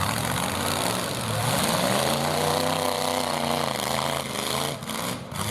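Demolition-derby pickup truck engines running loudly, with one engine revving up and easing back down around the middle.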